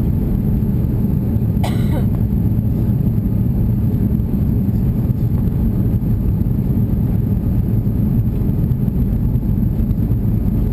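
Steady roar of an Airbus A340-600 in flight as heard inside the passenger cabin: engine and airflow noise, low and even, with one short click about two seconds in.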